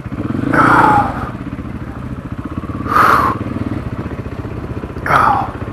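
Motorcycle engine running steadily at low revs. Three short, loud sounds with a falling pitch cut across it, about half a second, three seconds and five seconds in.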